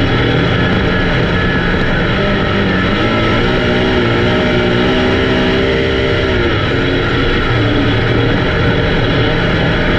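Race car engines running at speed, loud and steady, with the engine pitch rising and falling as the cars go around the track.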